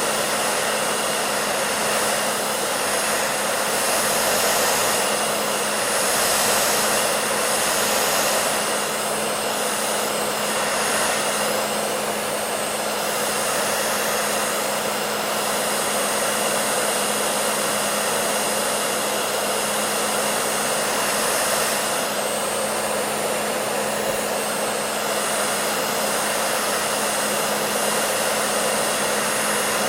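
Hair dryer running steadily: a constant airflow rush over a steady motor hum.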